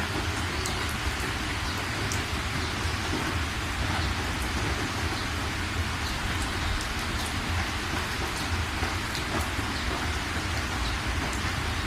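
Steady rain falling, an even hiss with scattered close drop ticks, over a constant low rumble.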